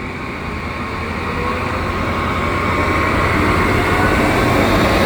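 Commuter train hauled by a Siemens Charger diesel-electric locomotive pulling out, its running note rising in pitch and growing steadily louder.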